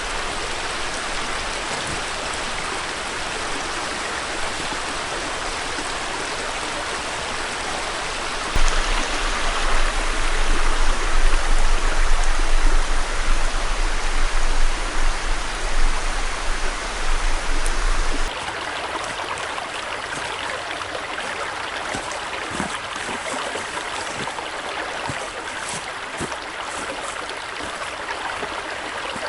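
Steady rushing noise of a flowing stream. About a third of the way in it turns louder with a low rumble for around ten seconds, then drops back to a softer rush with scattered faint ticks.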